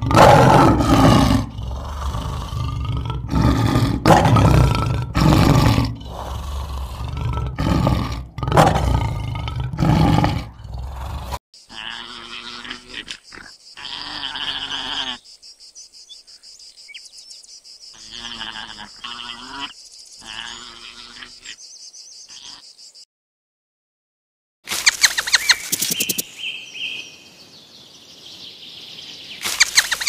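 A lion roaring repeatedly, loud calls coming one after another, for about the first eleven seconds. It cuts off suddenly to a quieter stretch with a steady high hiss and a few short pitched calls, then a brief silence and a run of quick clicks with a short high chirp near the end.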